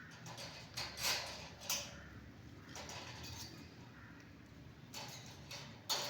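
Pet green parrot making several short, harsh, scratchy sounds, the loudest about a second in and just before the end.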